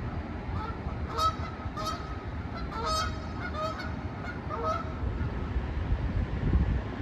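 Canada geese honking: a string of short honks in the first five seconds, over a low wind rumble on the microphone.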